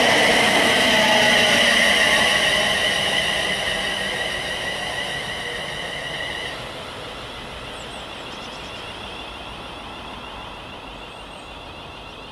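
A Class 185 Desiro diesel multiple unit runs away along the platform, a steady high whine over its running noise, fading as it goes. About six and a half seconds in the sound drops abruptly to the quieter noise of a Class 350 Desiro electric multiple unit approaching, with a faint wavering whine.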